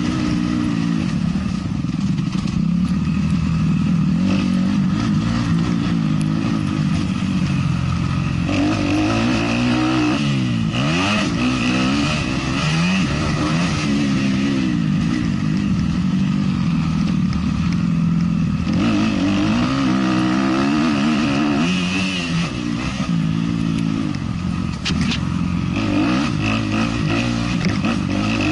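A 450cc motocross bike engine being ridden hard: the pitch repeatedly climbs as it accelerates, then drops when the throttle is shut off or it shifts, with a steady rush of wind and track noise over it and a few sharp clatters near the end.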